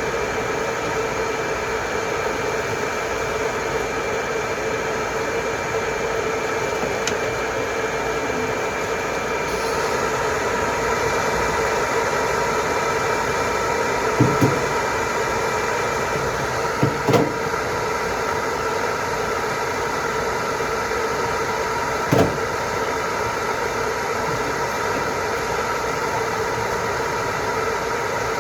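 Hair dryer blowing steadily on a toy poodle's fur, its fan running with a constant whine. A few short knocks come about halfway through and again later.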